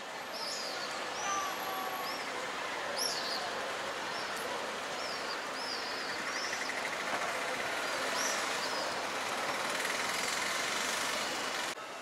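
Birds chirping in many short, high calls over a steady hiss of open-air street ambience.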